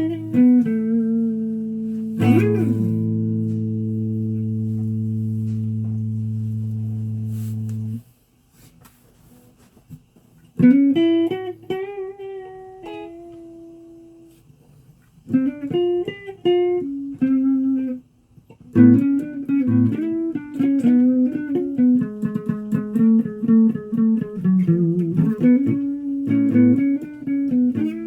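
Guitar being played. A chord rings out and is cut off about eight seconds in. After a short pause come bursts of plucked single notes, some bent in pitch, then steadier rhythmic picking through the rest.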